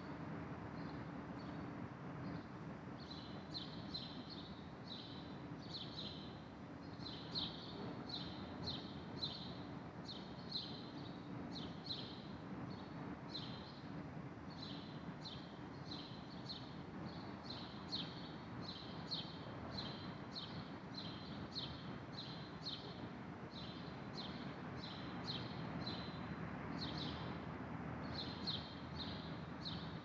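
Small birds chirping in a tree canopy: a steady stream of short, high chirps, often several a second, over a steady low background hum.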